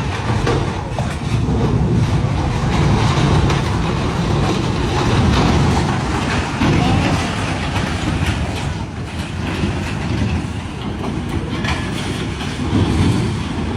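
Loud continuous rumbling and rushing noise of flood water and a barge being driven against a bridge, with rough grinding and knocking in it.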